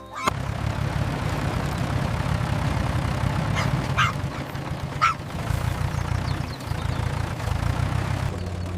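Tractor engine running steadily with a low rumble, with three short duck calls around the middle.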